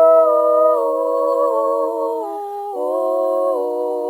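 Layered a cappella voices holding wordless sustained chords in harmony. The chord shifts several times, with a brief dip in loudness a little past the middle.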